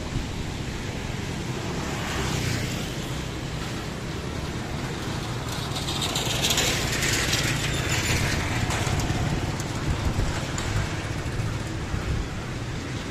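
Street traffic on a rain-wet road: a steady low engine rumble, with a hiss that swells and fades between about six and nine seconds in as a vehicle passes.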